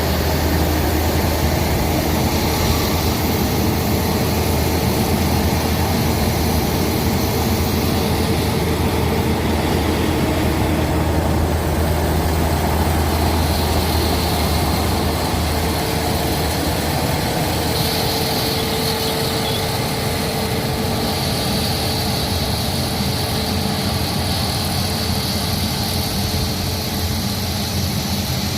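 Combine harvester engine running steadily as it works a rice paddy: a constant low hum with a noisy mechanical wash over it.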